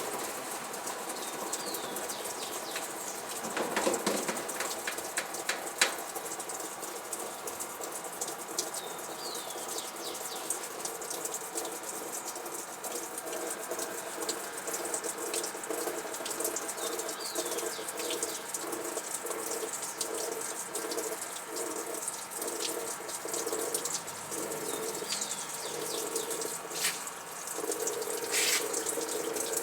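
Frigidaire washing machine running with water rushing. From about halfway there is a rhythmic mechanical churning, with a few knocks along the way.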